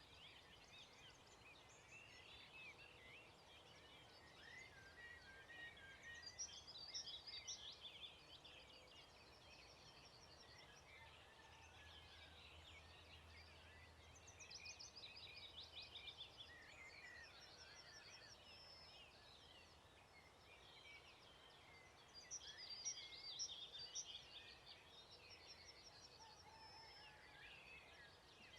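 Songbirds singing, several at once, with a loud, quick trilled phrase repeated about every eight seconds.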